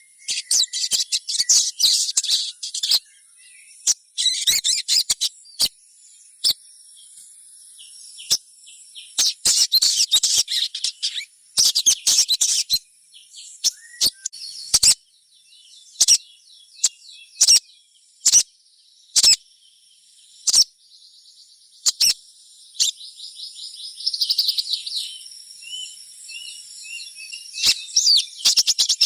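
Little spiderhunter (sogon) fledgling calls: bursts of rapid, high chattering chirps alternating with sharp single call notes every second or so. A steady high insect buzz runs underneath.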